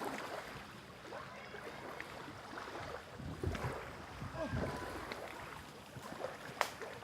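Water sloshing at a lake's edge under wind noise, with two low rumbling swells a few seconds in and a sharp click near the end.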